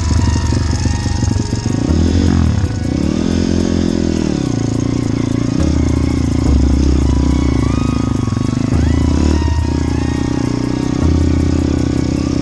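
Motorbike engine running steadily, its revs rising and falling twice in the first few seconds before settling.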